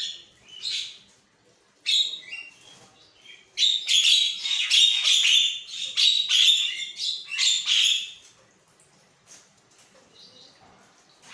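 Javan myna (jalak kebo) calling: a few short harsh notes, then a loud run of rasping, chattering song for about four seconds that stops abruptly, followed by only faint notes.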